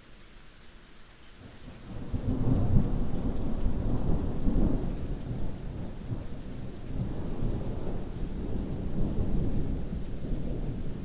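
Thunder rumbling over heavy rain: a low roll swells up about two seconds in, is loudest for the next few seconds, then keeps rolling more softly.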